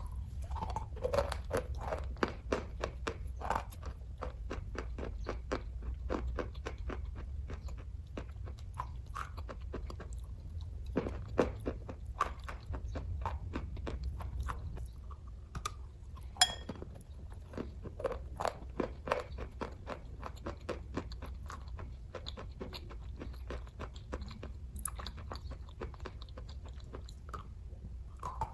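Close-miked chewing of kaju katli (cashew fudge): a continuous run of quick wet mouth clicks and smacks, with one sharper click about halfway through, over a steady low hum.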